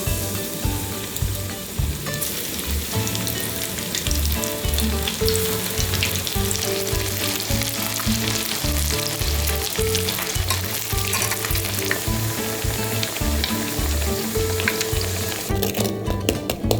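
Food frying with a steady sizzle, over background music; the sizzle stops near the end.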